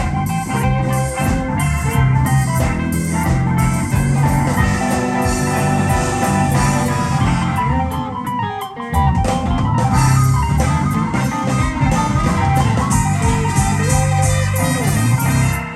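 Live blues band playing an instrumental passage between verses, with guitar over drums. A little past halfway the band drops out for about half a second, then comes back in.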